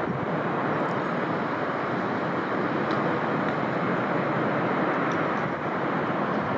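Strong typhoon wind blowing through the steel lattice of Tokyo Skytree, a steady rushing noise with no break.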